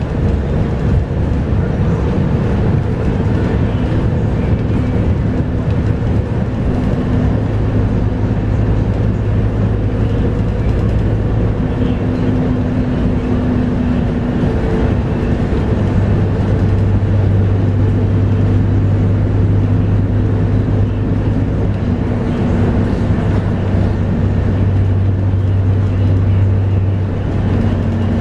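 Scania K230UB bus's 8.9-litre five-cylinder DC9 diesel engine running under way, heard on board: a steady low drone that swells and eases in stretches over road noise.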